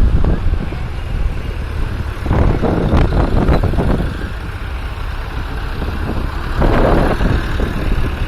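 Tractor engines running steadily, with the sound swelling louder twice: once about two seconds in and again near the seven-second mark.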